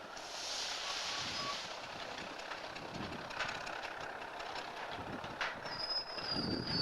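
Railroad cars being switched by a locomotive: a hiss, typical of air brakes, for the first couple of seconds, then clanks and clicks from the wheels and couplers, and a high wheel squeal near the end.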